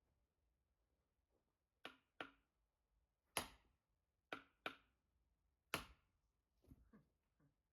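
An axe striking firewood: about six sharp wooden blows, some in quick pairs, followed by a few fainter knocks near the end.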